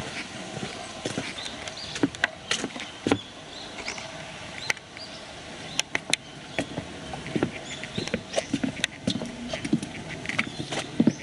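Footsteps on a forest park trail: irregular crunches and taps, unevenly spaced.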